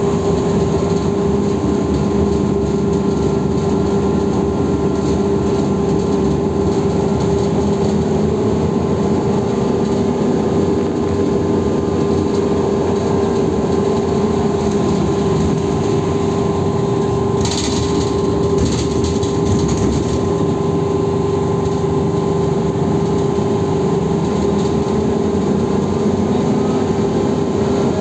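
BKM 321 trolleybus under way, heard from inside the cabin: a steady electrical whine over road and running noise, with a few brief rattling clicks about two-thirds of the way through.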